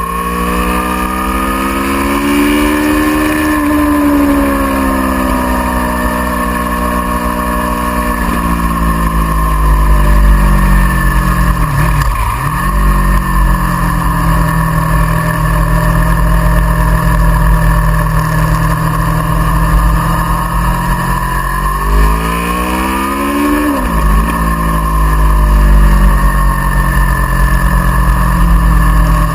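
Aprilia Tuono V4R's V4 engine heard from on board at track speed, its pitch rising and falling over several seconds as the throttle opens and closes, with two brief sharp dips in pitch. A steady low wind rumble runs underneath.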